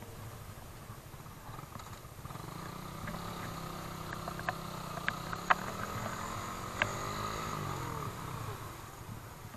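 Suzuki Raider R150 Fi single-cylinder motorcycle engine running at low revs, a steady low hum whose pitch wavers up and down near the end, with a few light clicks.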